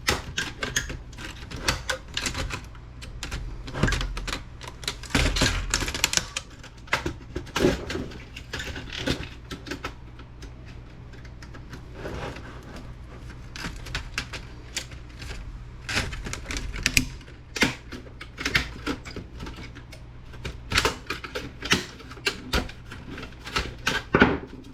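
Heat-welded plastic pins on a laptop case being pried up to free its steel frame: irregular sharp clicks, snaps and cracks of plastic throughout, over a low steady hum.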